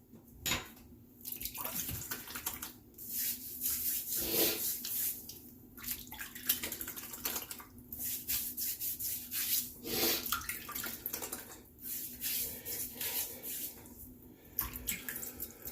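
Wet shaving at the sink: a run of short, irregular wet, scratchy strokes through lather, with water sounds among them.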